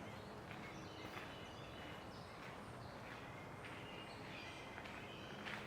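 Faint outdoor ambience: a steady low background hum with scattered short, faint bird chirps.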